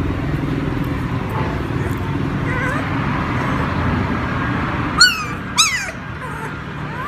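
A small dog gives two sharp, high-pitched yelps in quick succession a little after the middle, over a steady low rumble, with a few faint whimpers earlier.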